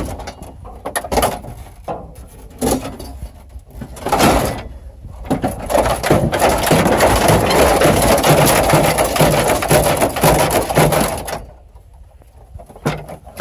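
A GMC truck's dashboard parts being wrenched and pried at. Scattered knocks, then a loud crack about four seconds in, then about six seconds of continuous rough cracking and scraping that stops abruptly near the end.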